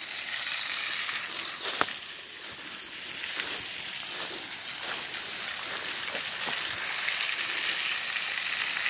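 Small waterfall spilling over a rock overhang and splashing on the rocks below: a steady hiss of falling water, with a few sharp clicks, the clearest about two seconds in.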